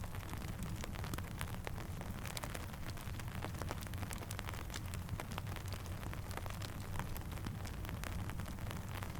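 Steady rain with a dense scatter of small sharp crackles and pops from a campfire, over a low steady rumble.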